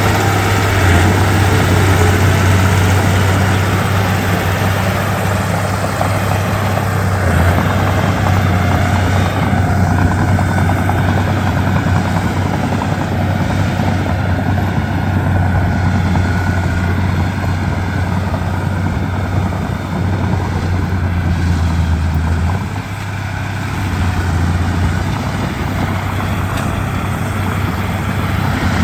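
Komatsu D31P bulldozer's diesel engine running steadily with a deep, even drone that drops in level briefly about three quarters of the way through.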